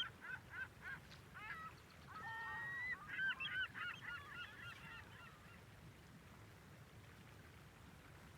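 Seagull sound effect: a flock of gulls calling, many short squawks over one another, which thin out and fade after about five seconds.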